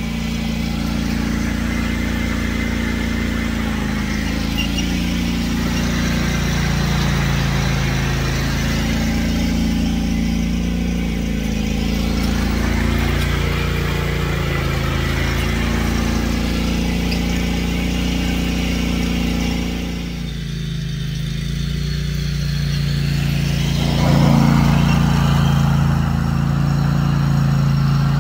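Tractor engine running steadily, its revs shifting up and down; it dips briefly and then revs higher about three-quarters of the way through.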